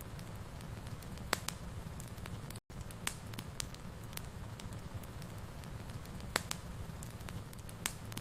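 Fire burning in a fireplace: a steady low rumble with scattered sharp crackles and pops, a few louder ones standing out. The sound drops out completely for a split second about two and a half seconds in.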